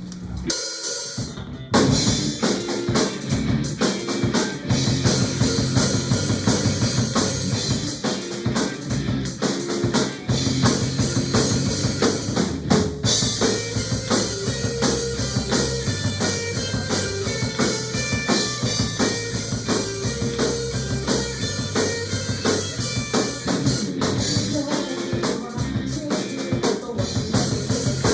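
A band playing a song's instrumental section with a drum kit prominent, bass drum and snare driving a steady beat. The music starts about two seconds in, after a brief pause.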